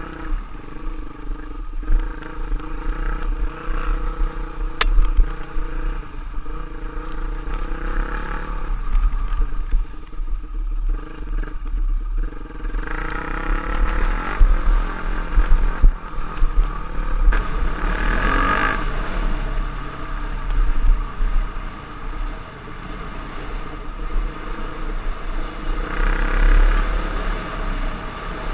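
Off-road trail motorcycle engine running while being ridden, its revs rising and falling over and over, over a steady low rumble.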